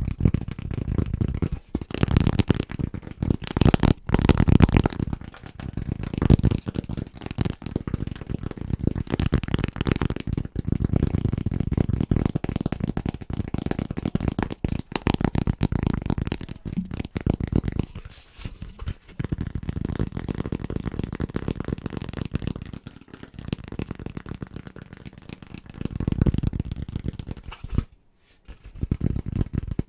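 Very fast, dense tapping with fingers on assorted household objects, switching abruptly from one object to another every few seconds, with a brief pause near the end.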